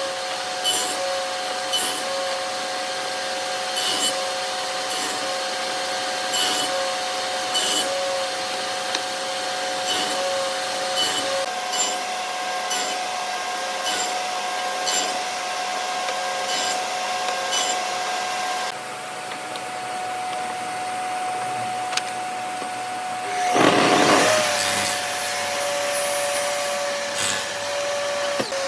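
An electric power tool's motor running steadily with a constant whine, while wood is worked, with sharp clicks every second or two. About 24 s in, a loud, rasping burst of noise lasts around a second.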